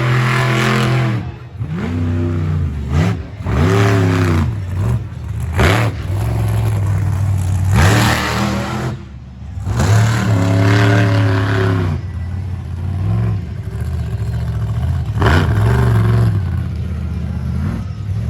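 Monster truck engine revving hard again and again, its pitch climbing and falling in repeated surges, with loud rushes of engine noise between them.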